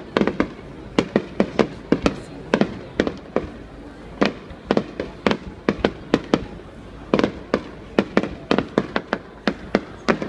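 Aerial firework shells bursting in a rapid, irregular series of sharp bangs, several a second at times.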